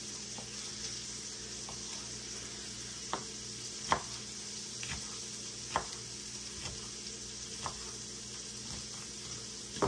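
Vegetables steadily sizzling as they sauté in a pot, with several sharp, irregular taps of a knife striking a wooden cutting board as a poblano pepper is chopped.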